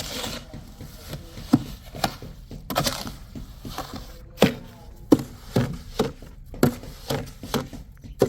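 An irregular series of sharp wooden knocks and cracks, about a dozen, one to two a second, with wood being struck or chopped.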